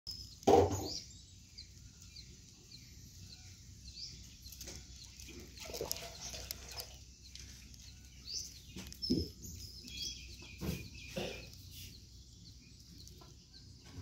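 Birds chirping and calling in short scattered notes over a faint low hum, with a few sharp knocks; the loudest knock comes about half a second in.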